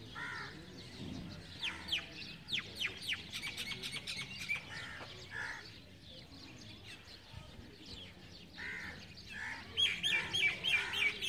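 Small birds chirping: a quick run of short downward chirps in the first few seconds, a few harsher calls in the middle, and a fast string of repeated chirps near the end.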